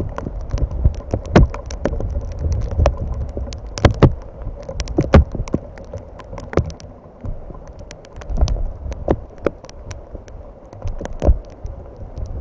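Rain on an outdoor microphone: irregular sharp taps of raindrops striking it, over a low rumble.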